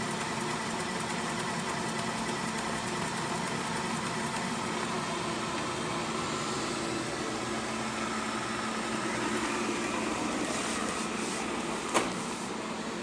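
Xiaomi Mi Robot Vacuum-Mop Essential cleaning: a steady hum from its suction fan and brushes. One sharp knock comes near the end.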